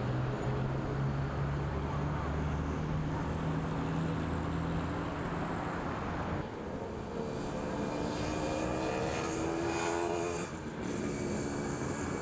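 Motor-vehicle traffic: engines running with a steady low hum, then after an abrupt change about six and a half seconds in, an engine rising in pitch as a vehicle speeds up.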